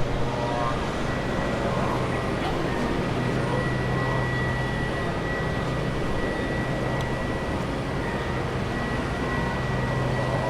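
Scoot Boeing 787-9 arriving, its Rolls-Royce Trent 1000 jet engines making a steady noise with a low hum and a thin high whine.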